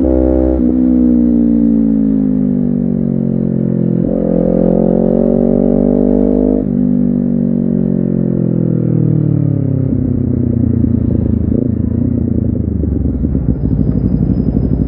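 Honda CBR250RR parallel-twin engine slowing down: the revs fall off, jump up sharply about four seconds in as it drops a gear, then fall away again. Over the last few seconds it settles into a low, uneven burble at low revs.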